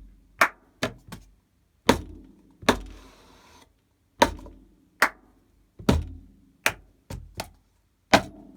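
A cup-song rhythm played slowly on a tabletop: hand slaps on the table, hand claps, and a cup knocked against the palm and set back down, as sharp knocks under a second apart. After about three seconds, a short scraping sound as the cup is slid across the table.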